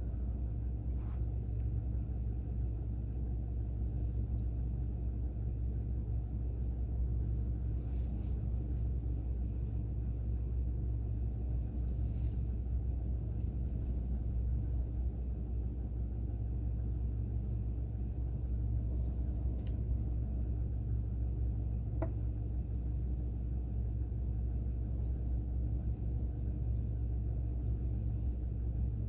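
Steady low rumble of an idling vehicle engine, with a few faint ticks.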